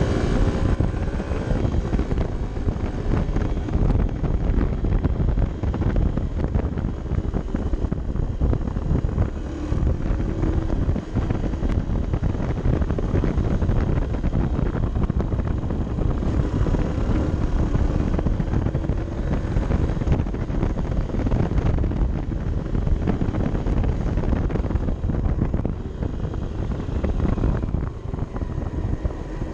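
Honda CB 125 F's single-cylinder four-stroke engine pulling the bike along, its note rising and falling with throttle and gear changes, under heavy wind rumble on the action camera's microphone.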